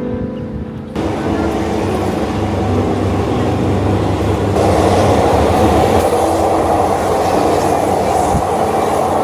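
Train running on the rails: a steady rumble that grows louder about halfway through.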